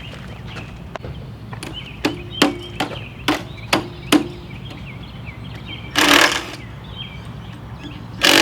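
A run of six sharp knocks about half a second apart, some with a short low metallic ring, then two loud bursts of rushing noise, the second starting near the end. Birds chirp faintly throughout.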